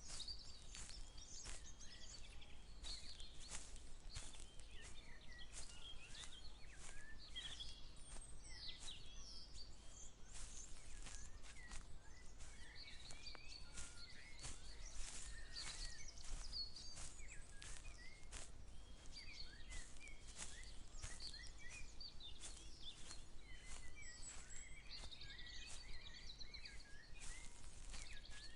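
Several birds chirping and trilling at once, over a walker's footsteps at about two steps a second.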